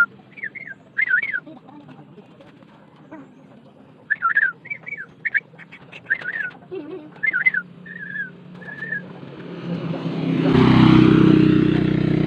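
A songbird singing bursts of short, quick warbling whistled notes. Near the end a motor vehicle engine grows louder as it passes.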